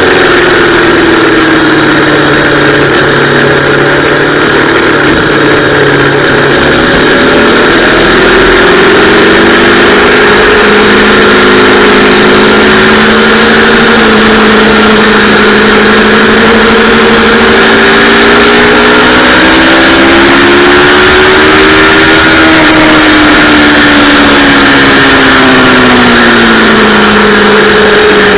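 Yamaha R3's parallel-twin engine under hard riding, its pitch rising and falling with throttle and gear changes: it drops in the first second, climbs for several seconds, dips again near twenty seconds, and falls before climbing again near the end. A steady rush of wind noise runs beneath it.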